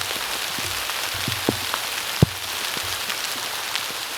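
Heavy rain falling on a woodland leaf canopy, a steady hiss, with large drops coming through and landing near the microphone as scattered sharp taps, the loudest a little over two seconds in.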